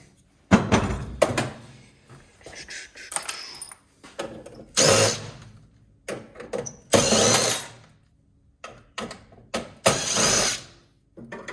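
Cordless drill-driver with a Phillips bit undoing screws in three short bursts, with knocks and clatter of metal and plastic parts being handled in between.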